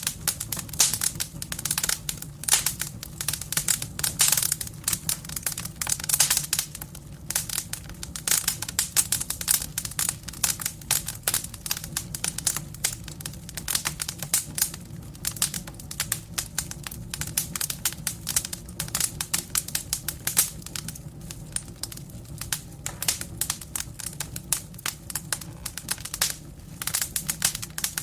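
Wood fire burning in a fireplace: dense, irregular crackling and popping of the logs over a low steady rumble of the flames.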